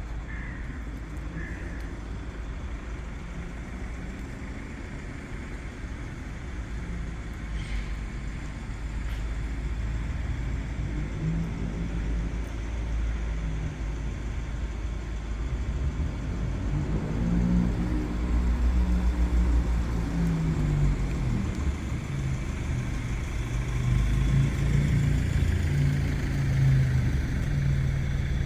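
Street traffic: motor vehicle engines running and passing over a low rumble that grows louder. Engine pitch rises and falls as vehicles go by, most clearly about two-thirds of the way through.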